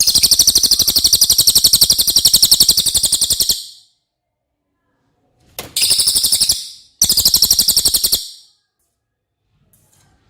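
Cililin songbird singing three loud, high-pitched rapid trills: one long trill of about three and a half seconds, then two short ones about a second each.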